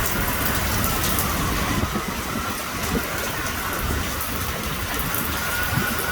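Heavy rain pouring steadily, with wind buffeting the microphone in a low rumble and scattered sharp drop ticks; a faint steady whine sits under it.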